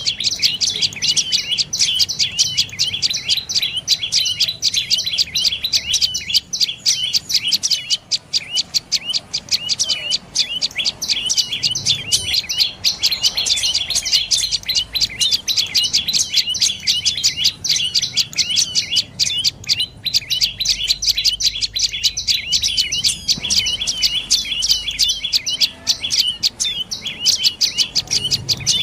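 Dark-necked tailorbird calling: a fast, unbroken series of short, sharp high notes, several a second, repeated without pause.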